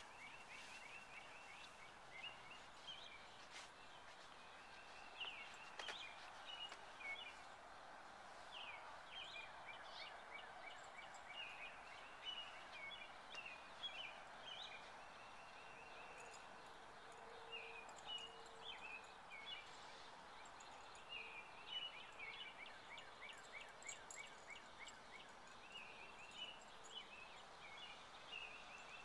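Faint birdsong from several birds, repeated short chirps and trills throughout, over a steady outdoor background hiss.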